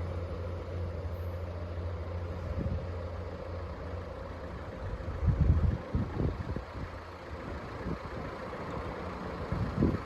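Northern Ireland Railways Class 3000 diesel multiple unit idling while standing at the station: a steady low diesel hum, with a few brief louder low rumbles about halfway through.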